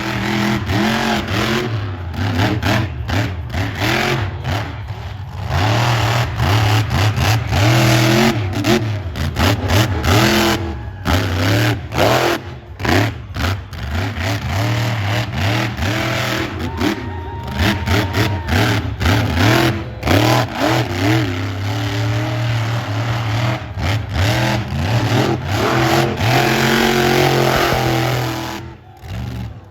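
Monster truck engine revving hard, its pitch climbing and falling again and again as the throttle is worked. The sound is loud and choppy, with many brief dips.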